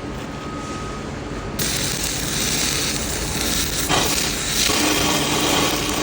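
Arc welder burning a hole through iron: a harsh, crackling hiss that starts about a second and a half in and keeps going.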